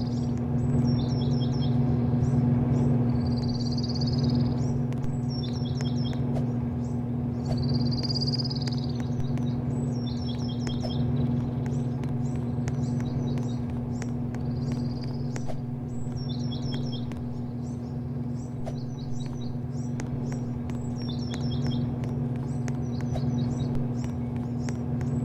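Birds chirping over and over, short high calls every couple of seconds, over a loud, steady low machine hum.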